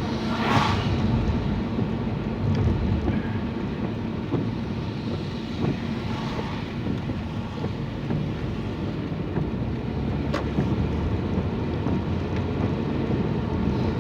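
Car cabin noise while driving on a rain-soaked road: steady engine and tyre rumble with wet road hiss. A few brief swishes of spray rise and fade, and there is one sharp click about ten seconds in.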